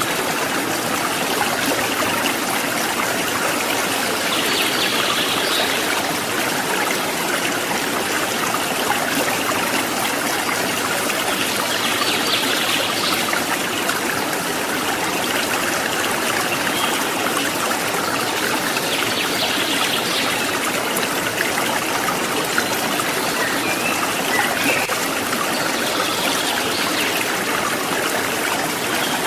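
Flowing stream water trickling and babbling steadily, with an even rushing noise. A faint, brief high sound recurs about every seven seconds.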